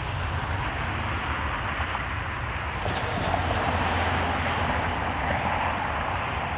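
Jet airliner engine noise, a steady rush that swells about three seconds in and eases off near the end, over a low rumble of wind buffeting the microphone.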